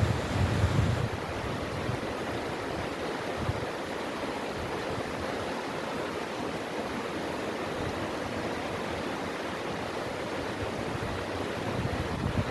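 Mountain valley stream rushing steadily over rocks, a continuous even water noise. Low wind rumbles on the microphone come in the first second and again near the end.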